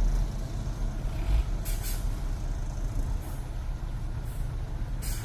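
Heavy truck's diesel engine running with a steady low rumble, with short hisses of compressed air from its air brakes, the clearest about two seconds in and another near the end.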